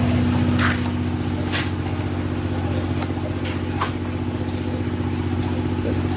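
Motorcycle engine running at a steady speed, with a few faint clicks over it.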